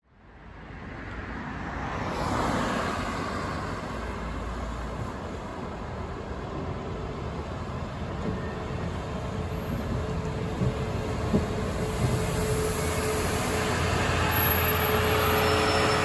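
ADL Enviro400 MMC double-decker bus on the move: a steady mix of engine and road noise with a few knocks, growing louder toward the end.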